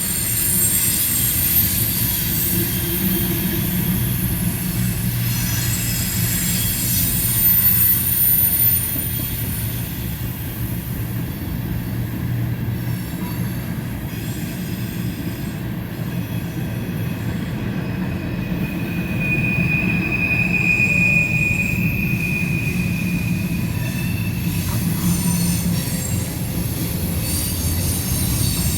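A CSX freight train's cars rolling past with a steady low rumble of wheels on rail. High-pitched wheel squeal comes and goes throughout, with a louder squeal about two-thirds of the way through.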